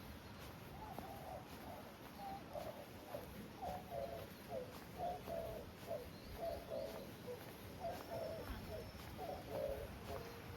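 A dove cooing over and over in short grouped phrases, over a steady low background noise.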